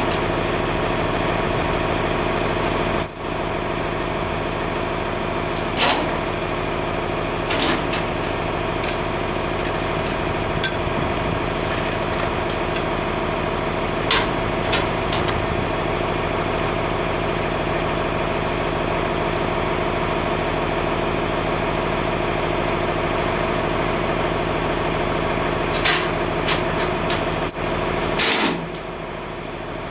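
Tractor engine idling steadily, with a few sharp metallic clanks over it. Near the end the engine note drops to a quieter level.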